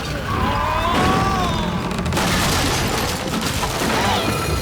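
Cartoon sound effects: a gliding vocal or whistle-like sound, then a dense rumbling crash that carries on.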